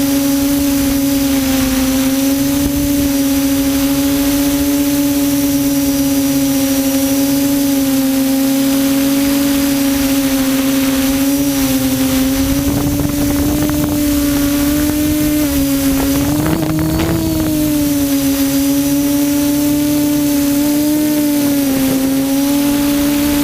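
QAV400 quadcopter's motors and propellers, heard close from the drone's own camera, making a steady, loud hum with slight pitch wavers as throttle changes. The pitch rises briefly about two-thirds of the way through.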